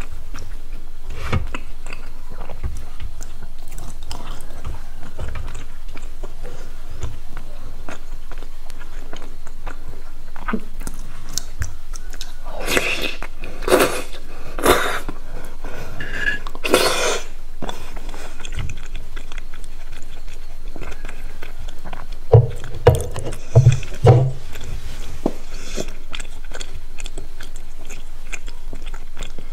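Close-up chewing and biting of crispy fried food, with crisp crunches. A run of louder crunches comes about halfway through, and a few loud low thumps follow later.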